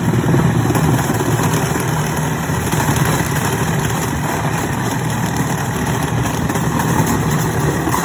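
A power saw running steadily as it cuts into the metal of an old dishwasher, then stopping abruptly near the end.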